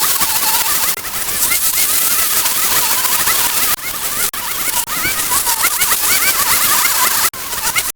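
Many birds chirping in quick, overlapping short calls over a steady high hiss, broken by several abrupt cuts.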